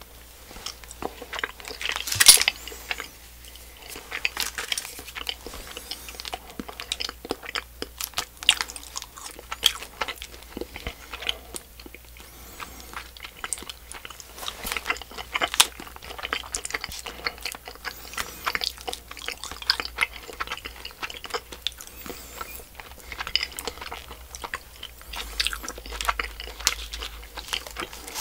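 Close-miked chewing and mouth sounds of a miniature Popin' Cookin' DIY candy hamburger being eaten: many short irregular clicks, smacks and crunches, the loudest about two seconds in.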